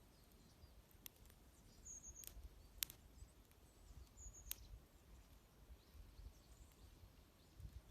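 Wood fire crackling faintly, with four sharp pops, the loudest near the middle, and faint high chirps of small birds.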